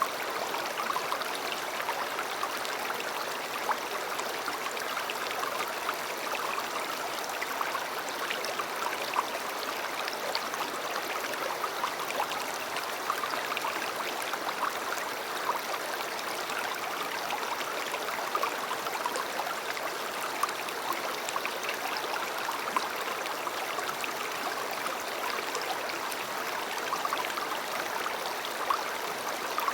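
A shallow river or stream flowing over stones: a steady rush of water with small splashes and gurgles running through it.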